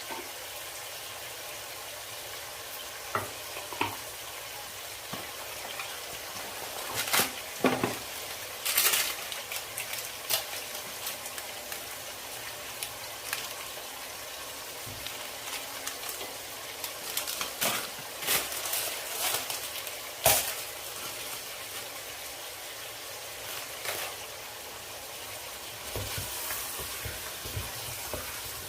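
Food sizzling as it fries in a pan, a steady hiss, with a spoon now and then clicking and scraping against the pot while it is stirred.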